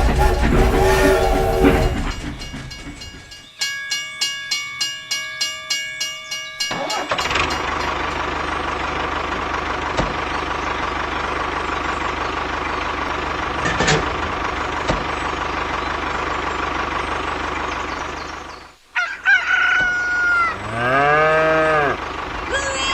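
Several sounds in turn: a run of short, evenly spaced tonal notes, then a long steady noise, then a rooster crowing near the end.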